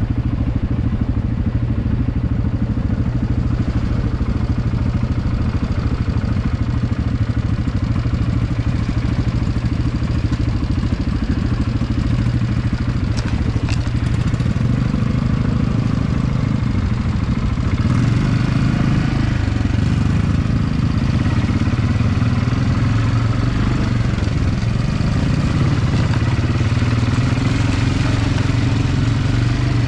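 Quad bike (ATV) engine running steadily while riding, heard from on the bike. About two-thirds of the way in it grows a little louder.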